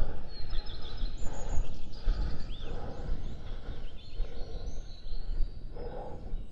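Wind rumbling on the microphone, with small birds chirping and calling in the background.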